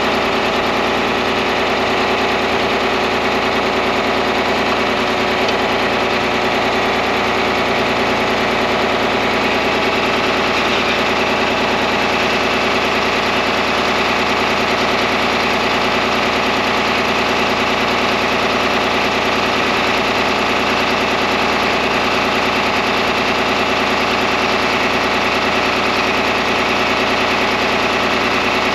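Tractor engine idling steadily, with an even, unchanging firing rhythm.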